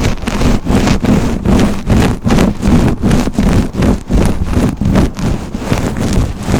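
Hairbrush strokes through hair close to the microphone, scratchy and even, about two to three strokes a second.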